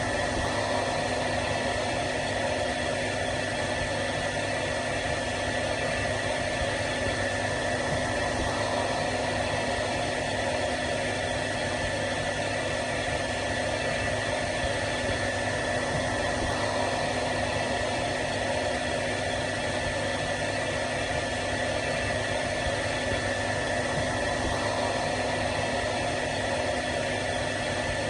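Hair dryer running steadily: an even blowing hiss with a constant motor hum and a high whine.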